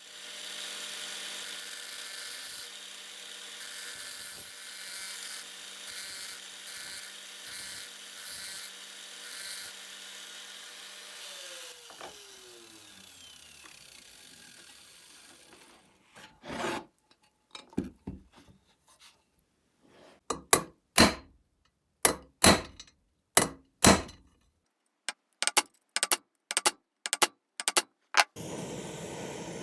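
An electric power tool runs under varying load for about twelve seconds, then spins down with a falling pitch. After a short pause comes a series of about a dozen short, separate scraping strokes of hand work on metal.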